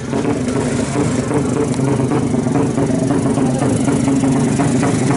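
200cc racing motorcycle engine idling fast and steady with an uneven, choppy beat.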